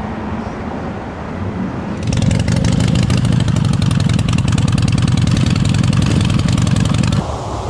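A motorcycle engine runs loud and close, with a rapid pulsing exhaust beat. It comes in about two seconds in and cuts off abruptly shortly before the end, over a lower background of street noise.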